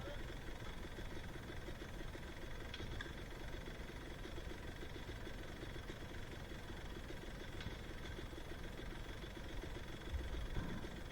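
Two-stroke dirt bike engine idling steadily, with an even, fast pulse and no revving.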